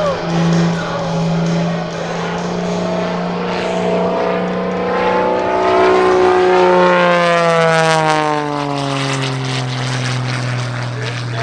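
Wolf Pitts Pro aerobatic biplane's engine and propeller droning as it flies past. It grows louder as it approaches, and its pitch drops clearly as it passes about eight seconds in.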